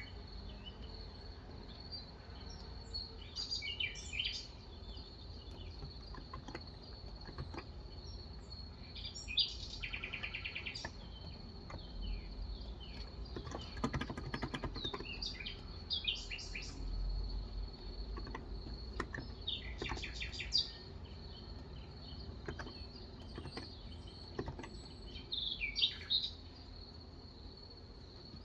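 Small birds chirping and singing in short repeated phrases, over a steady high-pitched whine. A run of soft keyboard keystrokes about halfway through.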